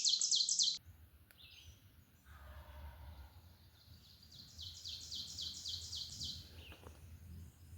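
A songbird singing a fast run of repeated high notes, about six or seven a second; the loud run breaks off about a second in and a fainter run of the same song follows from about four to six seconds in.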